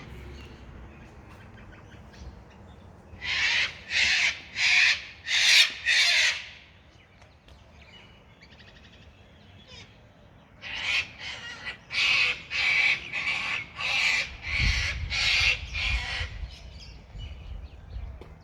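A bird giving harsh, repeated calls in two series: about five calls, a pause, then about nine more.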